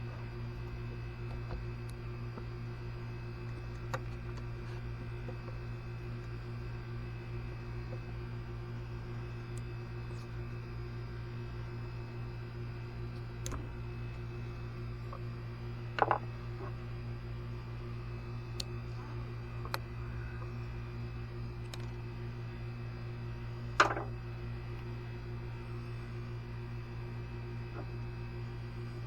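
Steady low hum with scattered light clicks, and two sharper knocks, about 16 and 24 seconds in, of tools and parts being handled during ATV engine repair.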